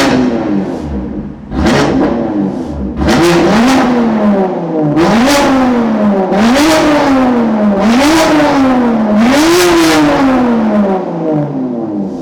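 BMW S55 twin-turbo inline-six, fitted with resonated catless downpipes and an equal-length midpipe, revved hard over and over. About every second and a half the exhaust note jumps up quickly, then falls away more slowly.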